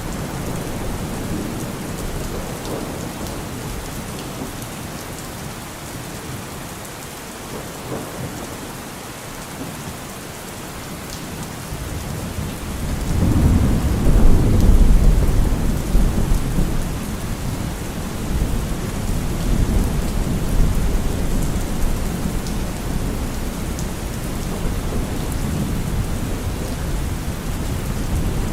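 Steady heavy rain with a roll of thunder that builds about halfway through, peaks in a deep rumble, and slowly dies away under the rain.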